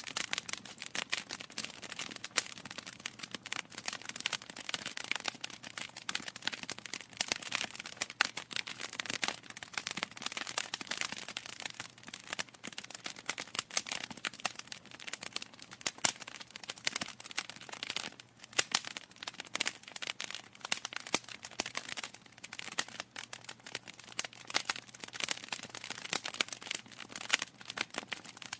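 Wood fire burning in a fireplace, crackling and popping continually with irregular sharp snaps over a soft hiss.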